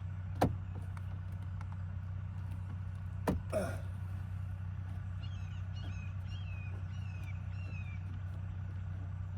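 A steady low hum runs throughout, broken by a few sharp clicks of parts or tools being handled, about half a second in and again past three seconds. About five seconds in, a bird chirps a quick series of short, falling notes for about three seconds.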